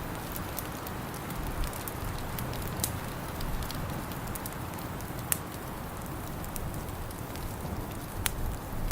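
Wood fire crackling in a fireplace: scattered sharp pops and snaps, two louder ones about five and eight seconds in, over a steady rushing hiss.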